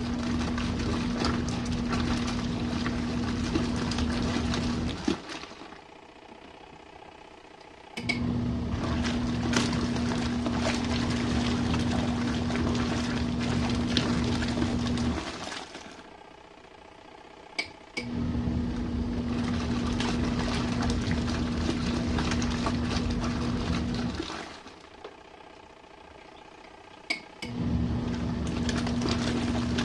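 Small RV washing machine in its main wash: the wash motor runs with a steady hum and churning water for about six to seven seconds, stops for about three, then starts again, four runs in all. A sharp click comes just before two of the restarts.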